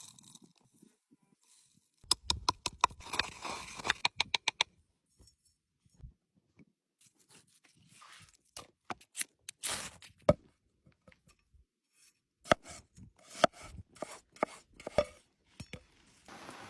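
Knife chopping on a cutting board: a fast run of evenly spaced strikes between about two and four and a half seconds in, then scattered taps and knocks.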